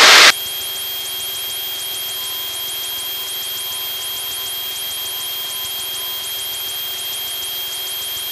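Piper Tomahawk's engine and propeller droning steadily in climbing flight, heard in the cockpit recording as an even drone with a thin steady high tone over it.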